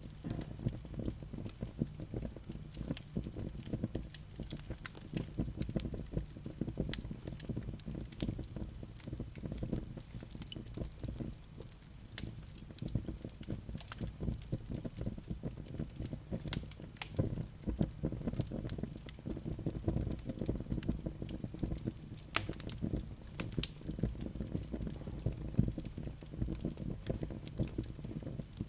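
Wood fire burning in a fireplace, with a low steady rumble of flames and frequent sharp crackles and pops.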